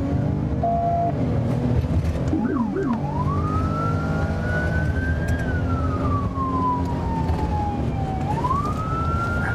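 Police car siren in a slow wail, its pitch rising, falling slowly and rising again, preceded by a few quick up-and-down sweeps. Under it is the steady drone of a vehicle engine.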